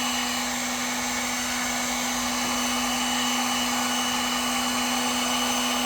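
Heat gun blowing steadily, a constant hum over a rushing hiss, warming a chainsaw crankcase bearing so the frozen crankshaft will slide in.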